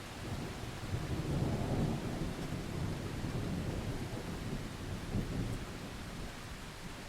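Rolling thunder rumbling low over steady rain, swelling about a second in, with a second surge near the end before it dies away.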